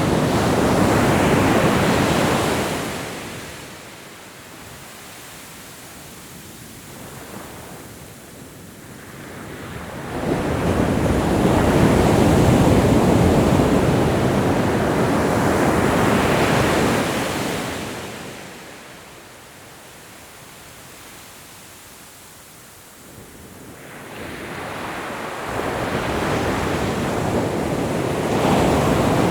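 Ocean waves breaking and washing onto shore, rising and falling in slow surges about every ten to thirteen seconds: three swells of surf with quieter ebbing between.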